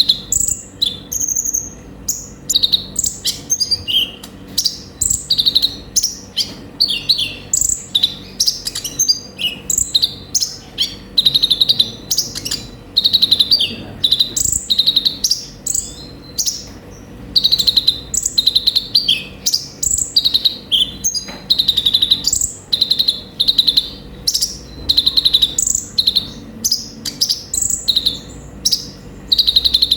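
Kolibri ninja sunbird singing continuously: rapid strings of short, high, sharp chirps and trills, one phrase after another with barely a pause. A faint steady hum sits underneath.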